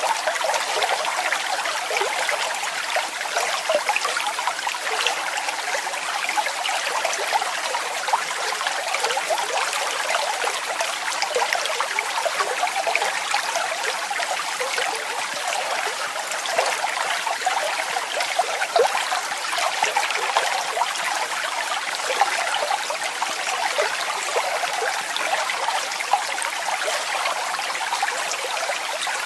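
Waterfall: a steady, even splashing rush of falling water with fine trickling in it and no deep rumble.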